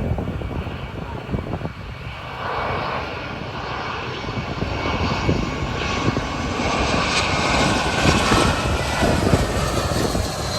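Jet airliner's engines roaring close by, the sound swelling from about two seconds in and loudest near the end.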